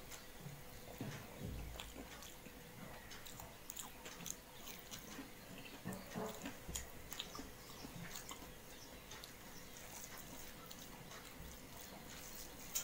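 Faint, soft chewing with small wet mouth clicks from a person eating dal with mashed potato.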